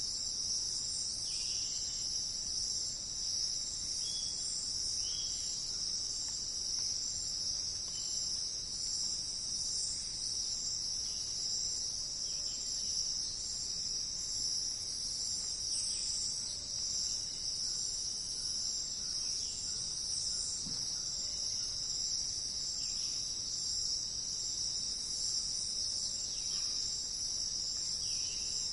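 Steady, high-pitched insect chorus, like crickets trilling without a break, with faint brief chirps every few seconds.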